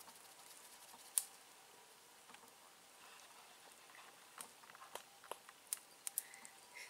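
Wood campfire crackling: sparse, irregular sharp pops over a faint hiss, with the sharpest pop about a second in and a quicker run of pops in the second half.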